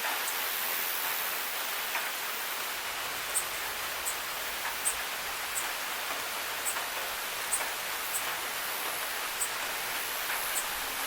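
Steady rain hiss, with small sharp ticks of single drops about once a second.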